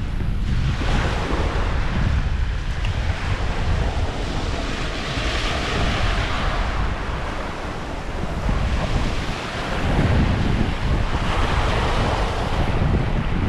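Small waves washing onto a sandy shore, their hiss swelling and fading a few times, with wind buffeting the microphone in a steady low rumble.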